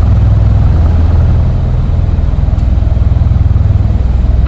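Marine Corps V-22 Osprey tiltrotors taxiing, their engines and proprotors running in a loud, steady low throb.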